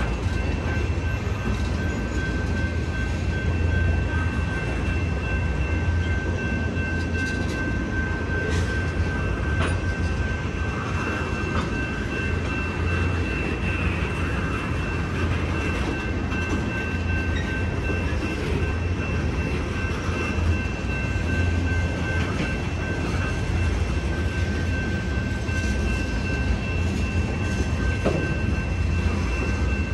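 Freight train's tank cars rolling past, a steady low rumble of wheels on rail with a thin high whine held throughout.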